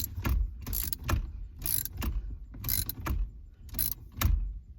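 Ratchet and socket tightening the bolts of a harmonic balancer puller, in short bursts of ratcheting clicks about once a second.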